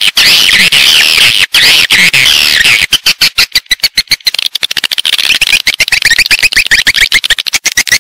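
Swiftlet lure call: a recording of swiftlets twittering in dense, overlapping high chirps, made to attract the birds into a swiftlet house. About three seconds in, the chirps break into a fast, even run of short chirps, about ten a second.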